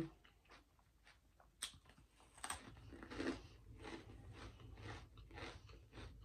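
Faint, close-miked chewing: irregular wet mouth smacks and small clicks of someone working through a mouthful of food.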